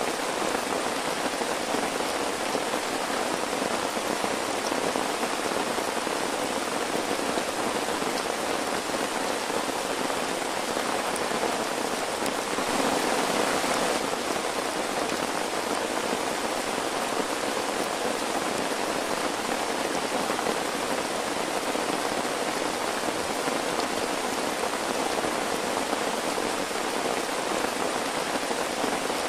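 Steady rain pattering, an even hiss, with a brief louder spell about halfway through.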